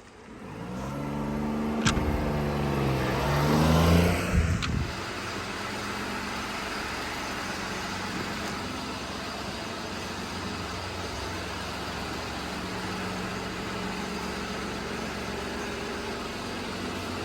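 1995 Daihatsu Hijet kei truck's small three-cylinder engine starting and revving, rising in pitch for a few seconds, then dropping about five seconds in to a steady idle.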